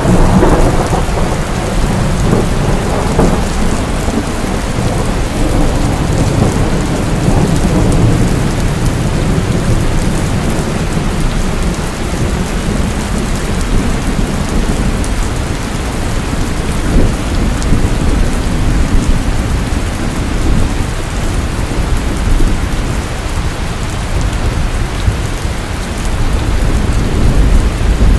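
Steady heavy rain with a deep rolling rumble of thunder underneath, swelling in the first few seconds and again near the end.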